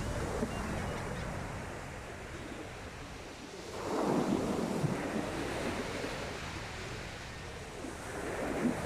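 Sea waves breaking and washing up the beach, one wave swelling loudest about four seconds in and another building near the end, with wind buffeting the microphone.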